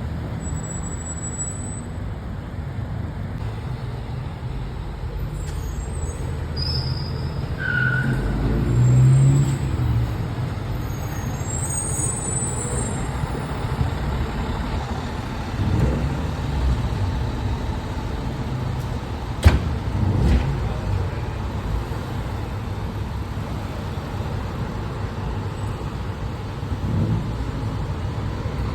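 Fire truck's diesel engine running amid road traffic, a steady low rumble that swells a few times, with one sharp click about two-thirds of the way through.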